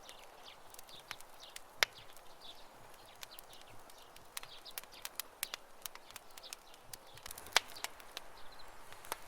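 Wood campfire crackling: irregular sharp pops and snaps, with two louder pops about two seconds in and about seven and a half seconds in. Faint birds chirp behind it.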